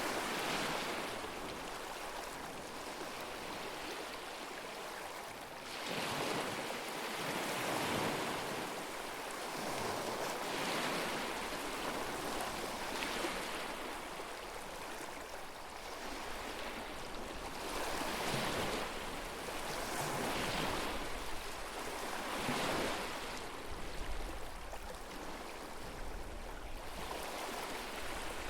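Small lake waves lapping and washing onto the shore, one swell of wash every two to three seconds.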